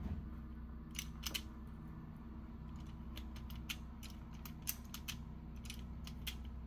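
Irregular clicks and snaps of a hand-held automatic wire stripper's jaws and mechanism being worked, as its built-in cutter is tried on a wire.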